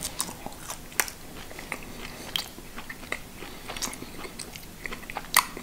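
A person biting into and chewing a thin, dry Polish mini kabanos sausage, close to the microphone: irregular small clicks and mouth sounds, with a few sharper ticks.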